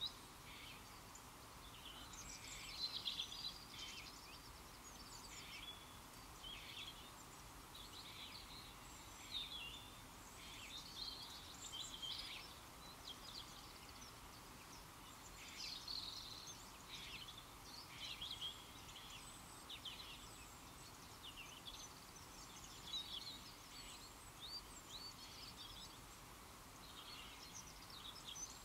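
Small songbirds chirping and singing in short, overlapping phrases, a call every second or so, over a faint steady background hiss.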